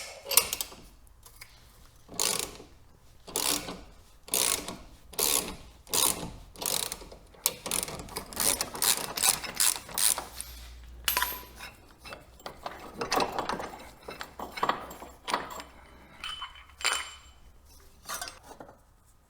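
Ratchet wrench clicking in repeated back-strokes, about one a second, then quicker and irregular, as the fasteners on the front suspension ball joint are undone.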